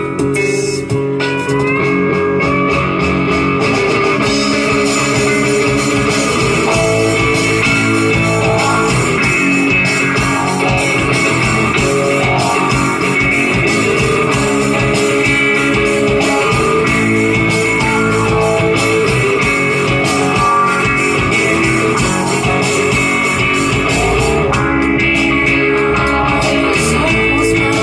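Rock band playing, led by guitar, with gliding guitar notes at the start and the full band filling in from about four seconds in.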